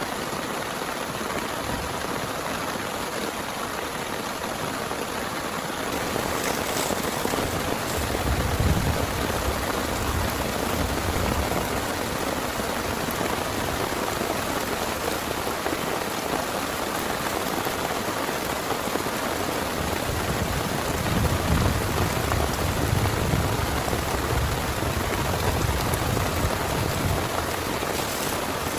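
Heavy rain falling steadily as a dense hiss, growing fuller about six seconds in. Twice a low rumble swells under the rain, about a third of the way in and again past the two-thirds mark.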